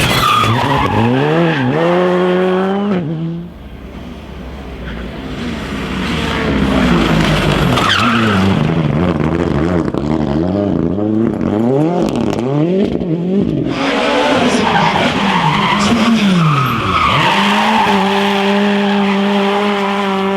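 Rally car engine revving hard through gear changes. Its pitch climbs and drops many times in quick succession, with a brief dip in loudness about three seconds in, then holds high and steady near the end.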